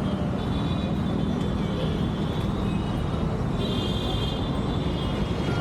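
Street traffic noise: a steady rumble of passing vehicles, with some faint high-pitched tones over it in the second half.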